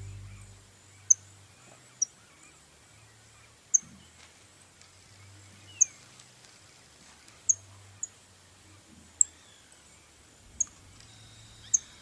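Background music fading out, then a bird giving a single short, high chirp over and over, about nine times at irregular intervals of one to two seconds.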